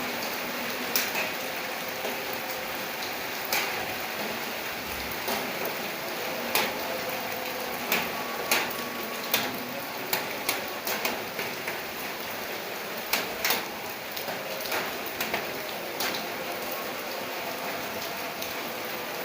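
Steady rain falling, with many irregular sharp taps of drops landing close by, most frequent in the middle stretch.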